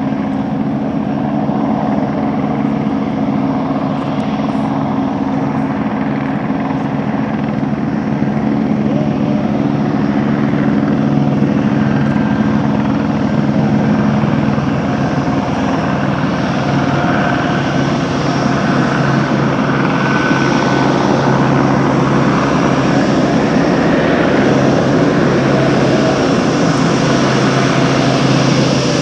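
Aircraft engines running: a steady, loud rumble with a low hum through it, growing slowly louder over the second half.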